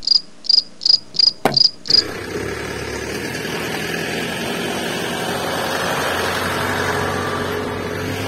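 A cricket chirps in a regular pulse, about three chirps a second, then about two seconds in a small electric motor starts up abruptly and runs steadily with an even hum.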